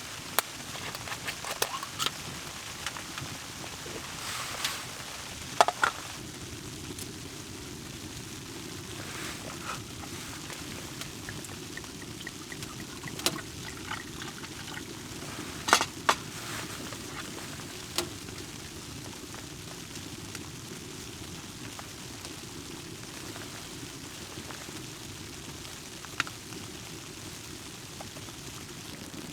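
A steady sound of water, with scattered sharp clicks and knocks, most of them in the first two thirds.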